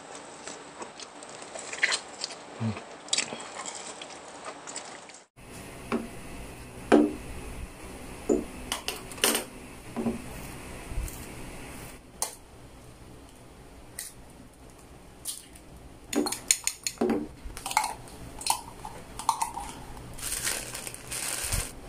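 Eating sounds at close range: cutlery clinking and scraping on plates, with crunchy bites of food, in short irregular clicks and crunches. The background changes abruptly about five seconds in.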